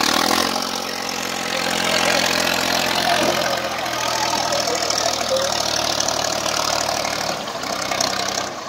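Swaraj 855 tractor diesel engine running with a steady note that fades about seven and a half seconds in.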